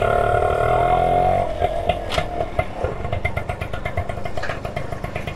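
Motorcycle engine revved, its pitch sinking over the first second and a half as the revs drop, then running at low revs with an even pulsing beat. A single sharp click about two seconds in.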